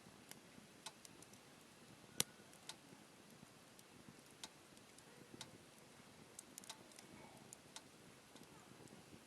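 Wood campfire crackling faintly: scattered, irregular sharp pops and snaps over a low hiss, the loudest snap about two seconds in.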